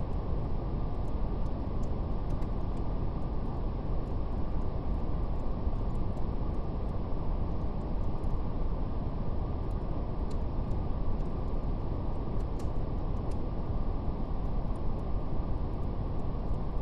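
Steady, deep brown noise, even and without change, with the faint, irregular crackle of a fire ticking above it.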